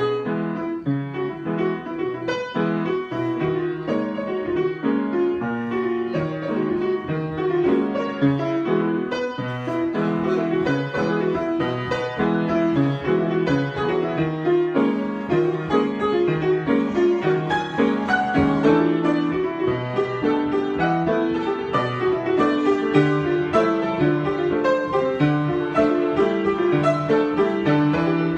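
Solo piano improvisation: a steady flow of notes and chords, growing a little denser and louder in the second half.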